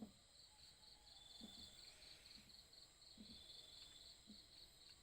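Faint chirping of night insects: a pulsing high trill at about four pulses a second over a steady high drone, with a few soft low knocks.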